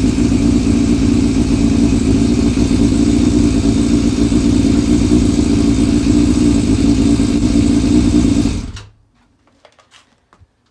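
Yamaha Fazer FZS600 inline-four engine running steadily, then switched off and cutting out abruptly about three-quarters of the way in. A few faint clicks follow.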